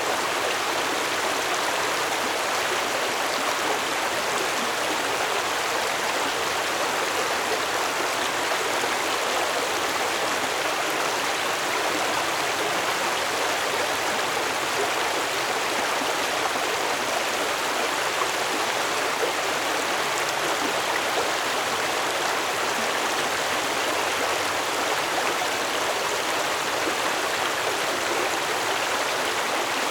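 Stream water flowing, a steady, even rush and babble with no changes.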